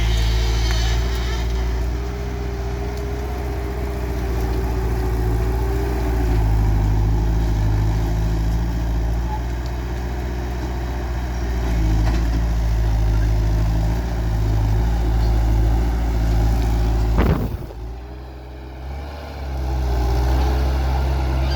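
Skid steer loader's engine running steadily under working load, with a whine that wavers in pitch. About 17 seconds in there is a sharp knock, then the engine sound drops for a couple of seconds before picking back up.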